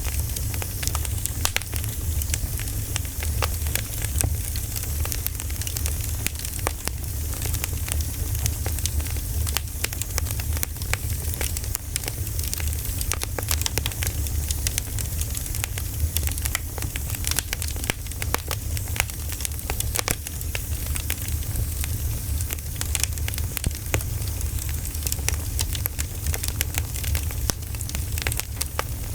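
Campfire crackling with frequent irregular pops and snaps over a steady low rumble.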